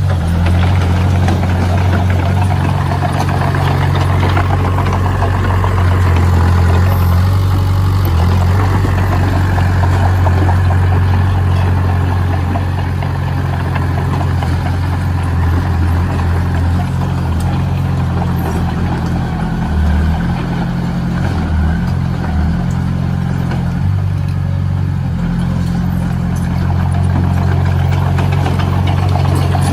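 Heavy construction machine's engine running steadily at a low, even rumble.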